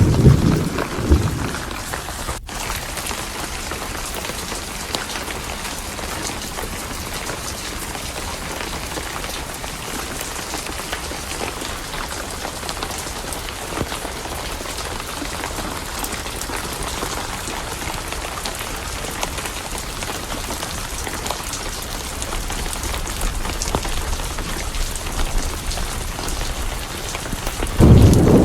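Steady heavy rain, with a deep thunder rumble dying away in the first second or so and another rolling in near the end. There is a split-second dropout a couple of seconds in.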